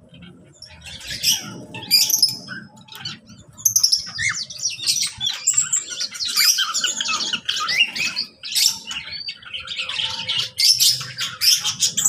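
A mixed aviary of small caged birds, lovebirds among them, chirping and squawking over one another. The calls are sparse at first and turn into a dense, continuous chatter from about three and a half seconds in.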